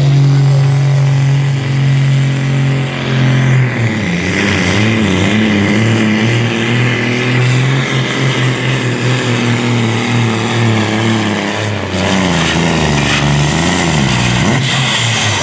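Supersport-class pulling truck's diesel engine running hard under the load of the pulling sled. The engine note holds steady for the first few seconds, then rises and falls unevenly for the rest of the pull.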